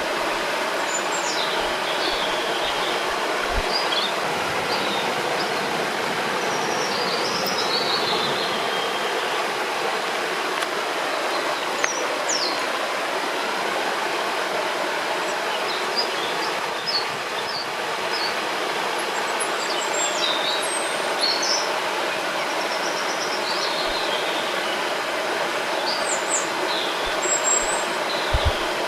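River water rushing steadily, with small birds chirping and calling on and off above it in short high phrases.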